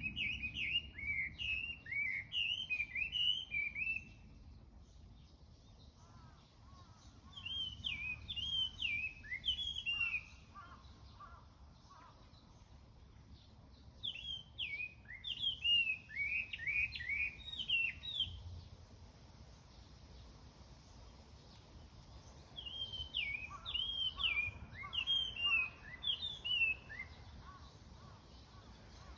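A songbird singing in four separate phrases of about three to four seconds each. Each phrase is a quick string of bright, down-slurred whistled notes. Fainter, lower calls and a steady low background hum fill the gaps between phrases.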